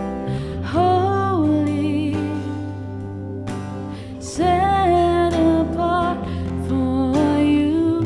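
Worship band playing a slow praise song: a singer holding long, wavering notes over guitar and a steady bass, growing louder about halfway through.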